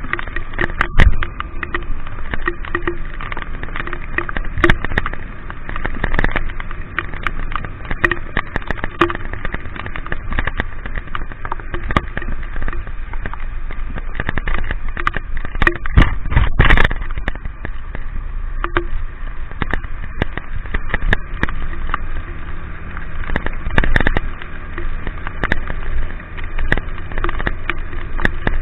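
Rain on a moving camera: steady wind and road noise with constant crackling pops of raindrops hitting the camera, and a few heavier knocks, one about a second in and one around the middle.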